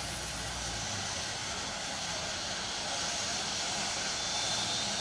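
Aircraft engine running, a steady rushing noise that grows slightly louder; a low hum underneath stops about a second in.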